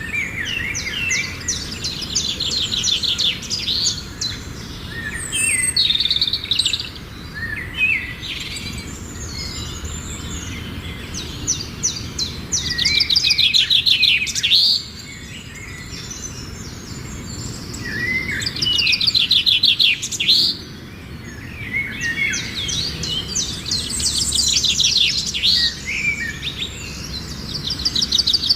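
Songbirds singing: repeated phrases of rapid trilled notes and short gliding whistles, coming every few seconds over a steady low background noise.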